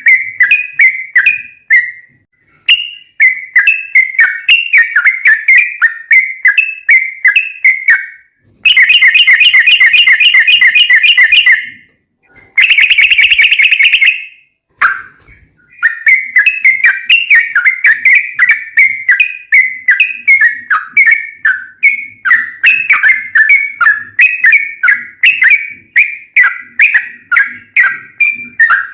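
Yellow-vented bulbul (trucukan) singing loudly in quick, repeated bubbling notes, about three or four a second. About a third of the way in come two louder, very fast rolling trills, each a couple of seconds long.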